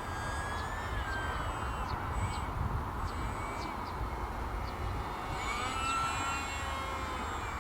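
E-flite Delta Ray One RC plane's electric motor and propeller whining in flight, over a steady low rumble. The pitch sags over the first second or so, then climbs again about five and a half seconds in as the throttle changes.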